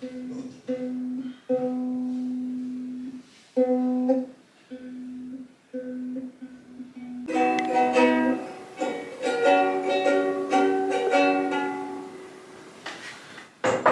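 Light acoustic background music with plucked strings, sparse held notes at first, growing busier and louder from about seven seconds in.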